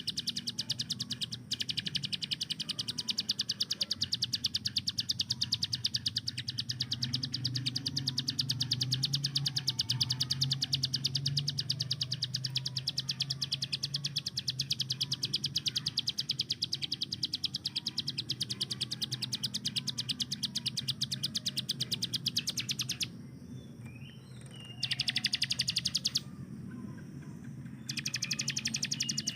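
Ciblek gunung, a prinia, singing its rapid-fire 'tembakan': a long, very fast run of evenly repeated high notes that stops about 23 seconds in, followed by two short bursts of the same near the end.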